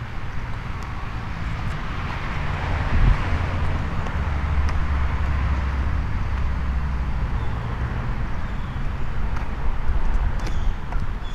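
A car driving past on the road, its tyre noise swelling about two seconds in and then fading away over several seconds, over a steady low rumble.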